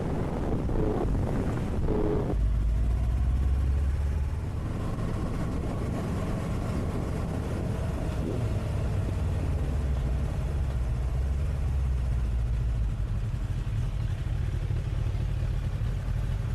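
Engine running with a steady low rumble, after about two seconds of wind noise on the microphone.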